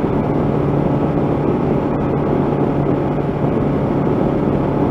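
1985 Honda CB700SC Nighthawk's inline-four engine running steadily at a constant cruising speed of about 50 mph, holding one even pitch with no revving.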